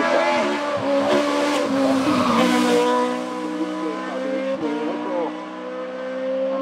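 A race car's engine running hard at high revs. About one to three seconds in there is a loud rushing noise over the engine; after that the engine note holds steadier and climbs slowly in pitch.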